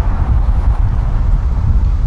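Electric train rolling past close by, a continuous low rumble with heavy wind buffeting on the microphone.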